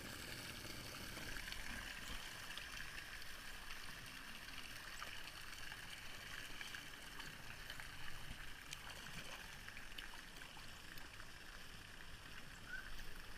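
Steady, fairly faint rush of flowing and splashing water from water-park spray features, with a few small clicks.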